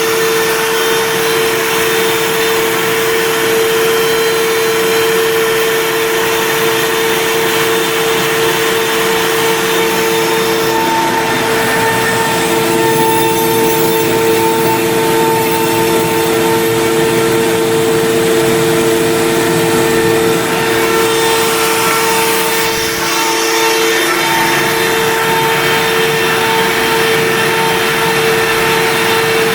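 WorkBee CNC router's spindle motor running steadily with a high whine over a rushing noise while the bit cuts wood, the tone wavering briefly a couple of times as the load changes.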